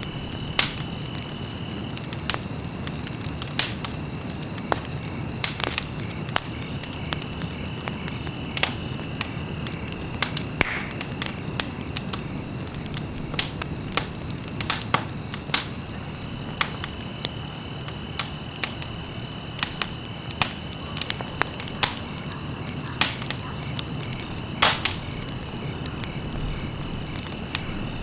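Wood fire burning in a fireplace: irregular sharp crackles and pops, a few louder snaps among them, over a steady low rustle of flames.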